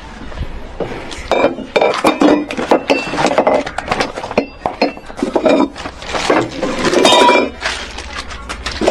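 Irregular clinks and clattering knocks of hard objects being handled.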